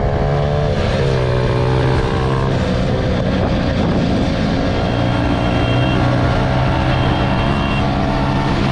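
Small motorbike engine running while riding, its pitch dipping about a second in and then holding fairly steady, with rushing noise underneath.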